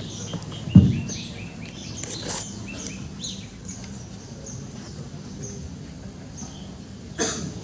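Birds chirping in runs of short, quick, falling chirps over a low steady hum. There is a dull thump just under a second in and a brief louder burst of noise near the end.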